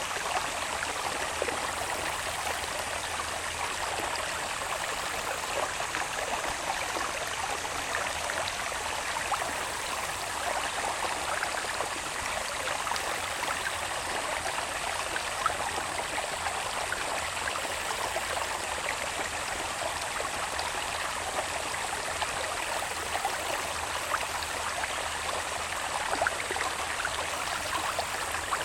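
Water babbling steadily along a small irrigation channel running from the hills into the fields, with a faint steady high-pitched insect buzz behind it.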